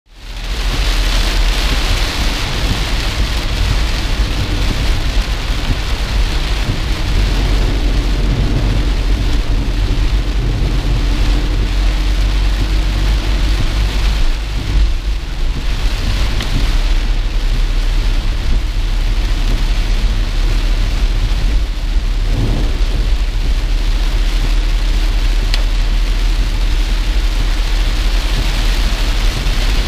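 Heavy rain beating on a moving car's roof and windscreen, heard from inside the car, with a steady low rumble underneath.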